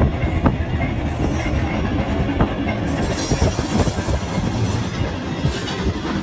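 SNIM diesel locomotive BB 206 and its passenger carriage passing close by: a loud, steady rumble of wheels on the rails, with a few sharp clicks.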